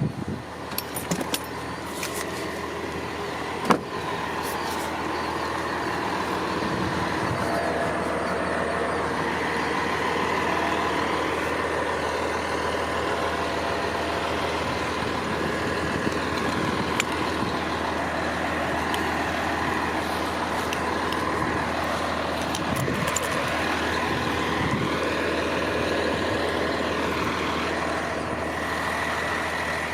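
Truck engine running steadily at idle, with a steady whine over it and a single sharp click about four seconds in.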